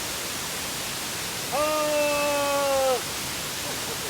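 Waterfall rushing with a steady hiss. About a second and a half in, a person's voice holds one long, slightly falling note for about a second and a half.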